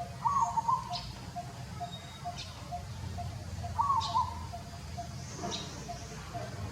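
Birds calling: a short warbling call repeats about every three and a half seconds among sharp high chirps, over a steady row of faint quick pips and a low hum.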